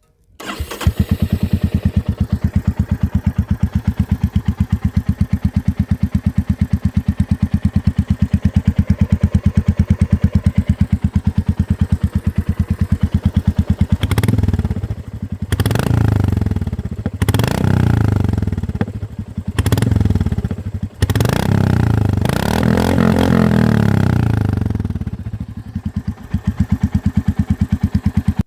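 Royal Enfield Classic 350 single-cylinder engine, exhaust open with the muffler end-tip removed and catalysts still fitted, starting up about half a second in and idling with a steady thump. From about 14 s to 25 s it is revved in a series of throttle blips, then settles back to idle before cutting off suddenly at the end.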